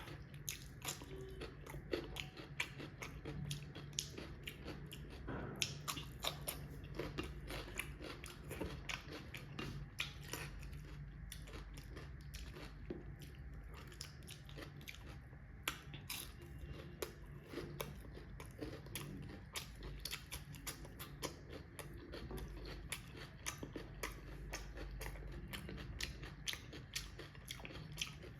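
A person eating close to the microphone: steady chewing and biting with many small crunches and mouth clicks. A low steady hum sits underneath.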